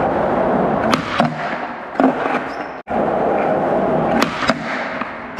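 Skateboard wheels rolling on pavement, with several sharp clacks of the board and trucks striking as a trick is popped and landed; the loudest clack comes about two seconds in.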